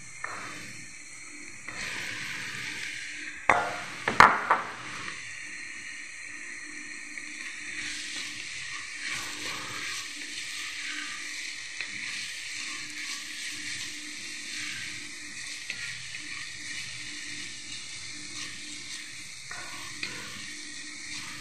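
Diced onion sizzling in oil in an enamelled pot, stirred with a wooden spoon, with a steady frying hiss. About four seconds in there is a loud, sudden burst of clatter and sizzle as diced aubergine is tipped in. Then steady sizzling continues with the spoon scraping through the vegetables.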